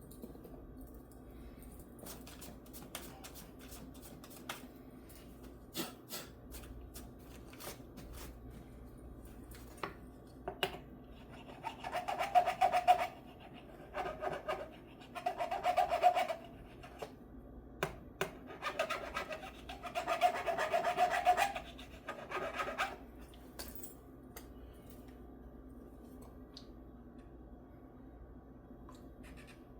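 A Scotch-Brite abrasive pad scrubbing back and forth in five short bursts, each a second or two long. Light clicks and knocks of handling come before them.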